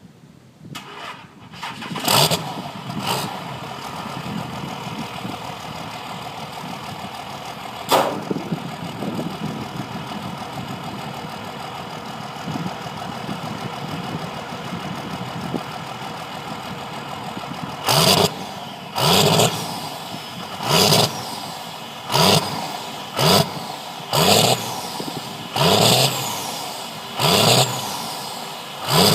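Cummins 5.9 12-valve diesel (P-pump 6BT) cranking and catching about two seconds in, then idling steadily with one quick blip of the throttle. From about eighteen seconds on it is revved hard in a string of short bursts, roughly one every second and a half, each rising and then falling back to idle.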